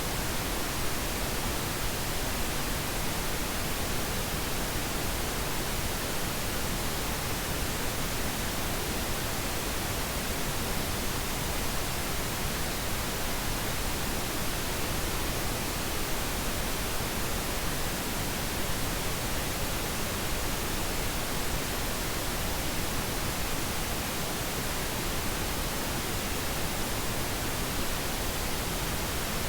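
Steady pink noise: an even, unchanging hiss spread across all pitches, with no other sound.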